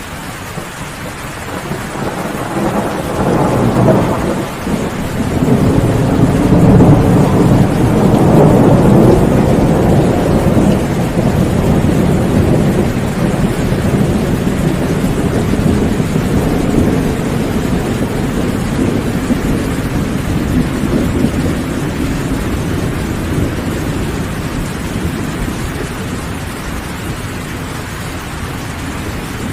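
Steady rain with a long roll of thunder that builds from about two seconds in, peaks about a third of the way through, and slowly rumbles away.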